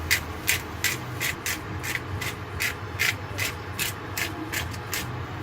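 Hand pepper mill grinding black pepper: a quick, regular run of short rasping turns, about three a second, that stops about five seconds in.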